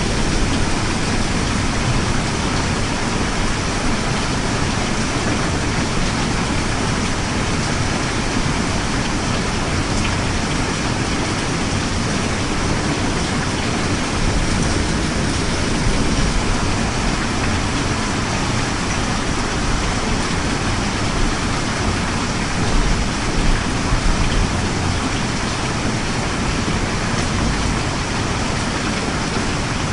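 Steady rain, an even hiss of falling rain with a low rumble underneath.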